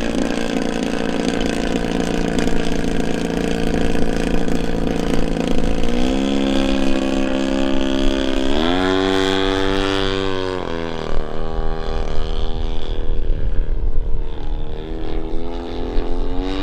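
Desert Aircraft DA-100 twin-cylinder two-stroke gas engine of a large RC Super Decathlon in flight, running at low throttle. The pitch rises as it is throttled up about six seconds in, climbs higher a couple of seconds later, then drops back near the middle. Wind rumbles on the microphone in the second half.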